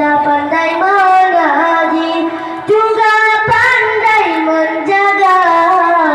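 A group of boys chanting a zikir, an Islamic devotional chant, in unison: long held melodic phrases, with short breaks where a new phrase starts about two and a half and three and a half seconds in.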